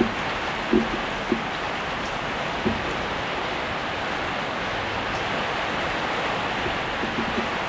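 Heavy rain falling steadily, with a few short dull knocks over the steady hiss, several in the first three seconds and a few more near the end.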